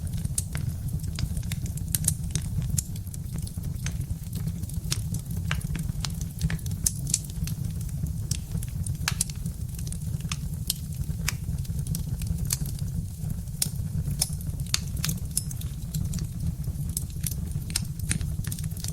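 Birch-wood fire crackling, with frequent irregular sharp pops and snaps over a steady low rumble of the burning.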